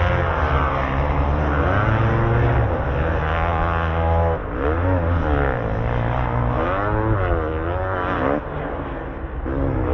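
Dirt bike engine revving hard and falling off again and again as the throttle is worked around a motocross track. The revs drop back near the end.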